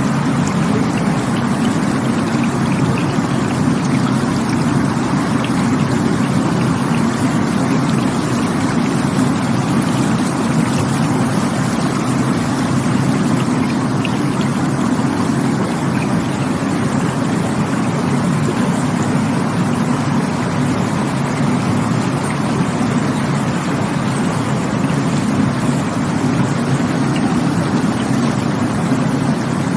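Rushing water running steadily and loudly, a continuous even rush with no breaks.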